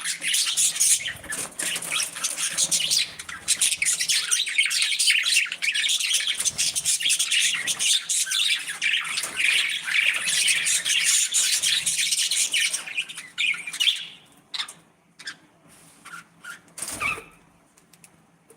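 A flock of budgerigars chattering and chirping, dense and continuous, thinning about two-thirds of the way through to scattered short chirps with one louder call near the end.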